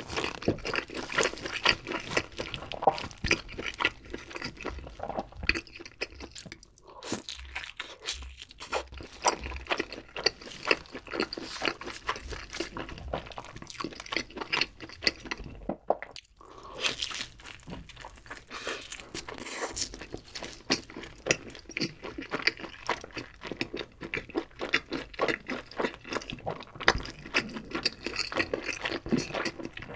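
Close-miked eating sounds of thick cheese-pizza crust dipped in cream sauce: a dense run of crisp crunches and chewing, pausing briefly twice.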